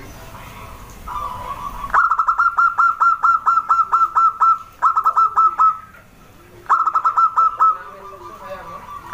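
Zebra dove (perkutut) calling: quick runs of short, clipped coo notes, about eight a second. The first run starts about two seconds in and lasts over two seconds, and two shorter runs follow. Softer, lower coos sound in between.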